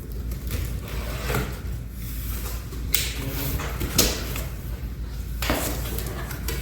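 Cardboard boxes being handled: several short scrapes of cardboard sliding against cardboard, with a sharp knock about four seconds in.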